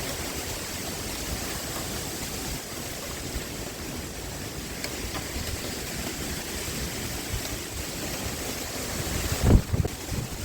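Steady rushing wind outdoors, with wind buffeting the microphone. A stronger gust hits the microphone as a short low rumble about nine and a half seconds in.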